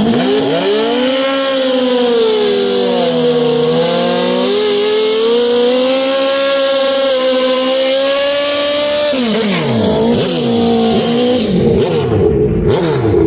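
A high-revving sport motorcycle engine, loud, climbing in pitch in the first second and held high for about nine seconds with small dips, then dropping away in several quick falls in pitch.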